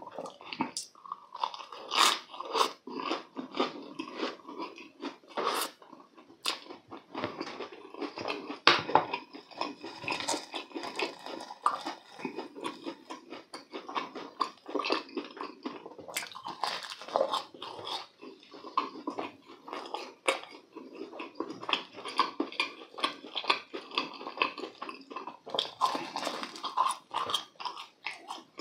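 Close-up chewing of deep-fried panko-crusted croquettes and a glutinous-rice twisted donut, with irregular crunchy bites and crackles of the fried crust.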